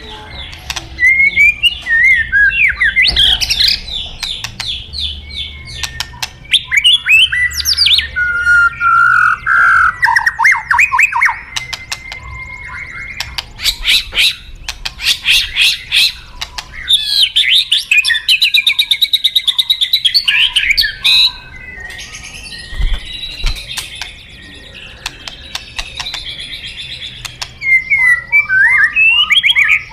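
White-rumped shama (murai batu) singing a loud, varied song: phrases of rapid repeated notes, sweeping whistles and some harsher scratchy notes, broken by short pauses.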